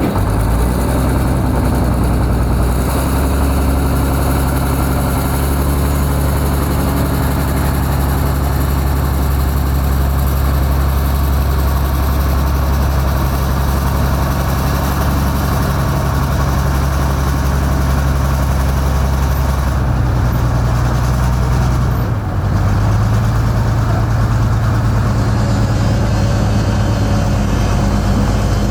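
Heavy diesel engines of construction machinery running steadily, with a sudden change in engine pitch about 22 seconds in.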